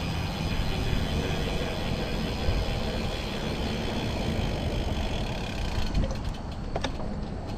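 Rumbling wind noise on the microphone and tyre noise from a road bike riding along. Near the end a fast, even ticking starts, like a freewheel clicking as the rider coasts.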